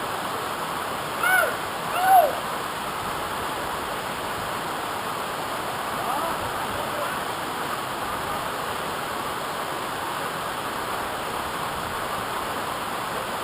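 Steady rush of a waterfall. About a second in, two short calls sound over it, each rising then falling in pitch.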